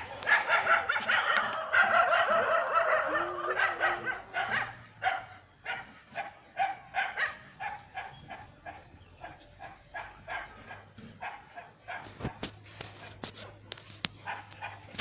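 A dog barking over and over, about two barks a second, thinning out toward the end; a few sharp clicks near the end.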